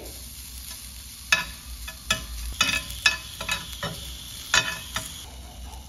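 Minced garlic and slices of canned ham sizzling in a smoking-hot cast iron grill pan, with a metal spoon clicking and scraping against the pan about seven times as the garlic is spooned in.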